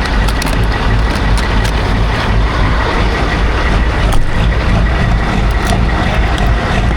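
Heavy truck engine running with a steady low rumble, with a few light clicks over it.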